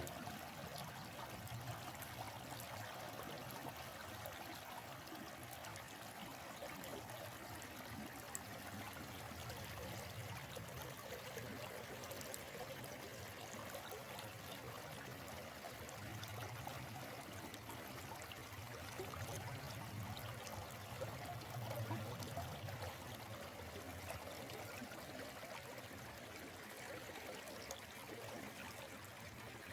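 A stream running steadily, a continuous, even water sound.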